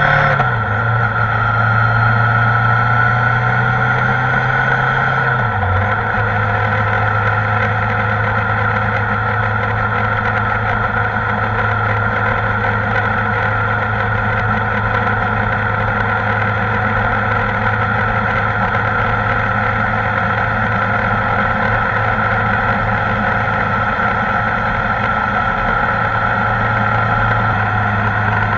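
Kawasaki ZR-7S motorcycle's air-cooled inline-four engine running at a steady speed while riding, with a brief dip in the engine note about five seconds in, as at a gear change.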